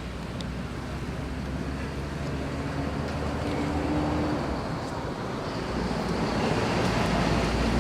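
Outdoor background noise: a steady low rumble and hiss that grows louder toward the end, with a faint hum through the middle.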